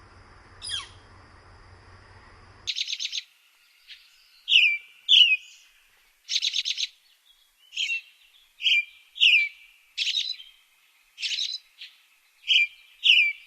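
Bird calls: a short falling whistle over a steady hiss about 0.7 s in. From about 3 s on, loud high calls repeat: quick runs of rapid chirps alternating with short down-slurred whistles.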